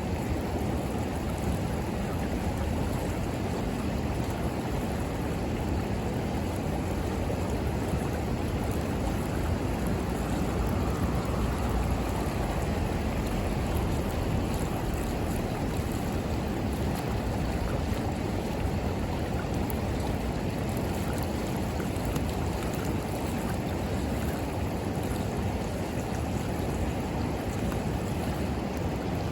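Steady rush of a river flowing, with faint crackles from a wood bonfire.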